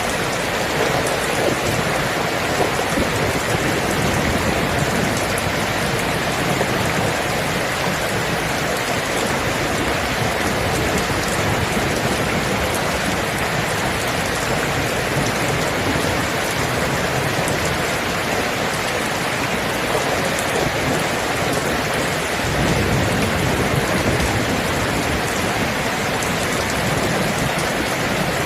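Steady, heavy rain falling, with a low rumble of distant thunder swelling about three quarters of the way through.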